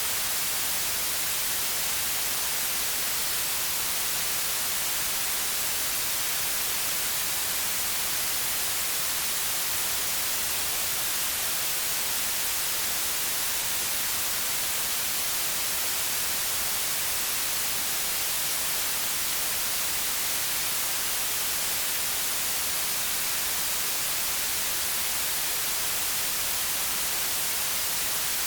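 Steady white noise: an even, unchanging hiss, brightest in the treble, with no events or changes.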